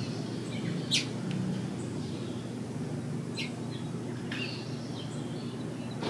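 A few short, high bird chirps, the loudest and sharpest about a second in, over a steady low background rumble.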